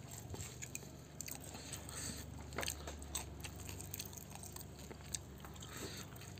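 Close-up chewing and biting of fried catfish, with small crunches and clicks scattered through, over a low steady hum.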